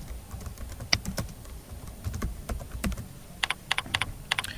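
Computer keyboard typing: scattered single keystrokes, then a quicker run of keys near the end.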